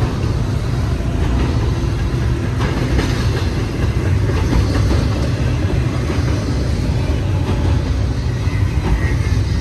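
Double-stack intermodal freight train rolling past: a steady, loud rumble of steel wheels on rail, with a few light clicks a few seconds in.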